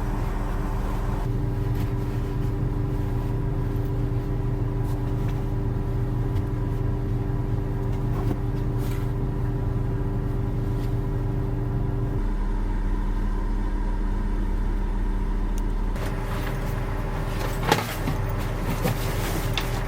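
Steady mechanical hum of a running motor, its tone shifting abruptly a few times, with a short knock near the end.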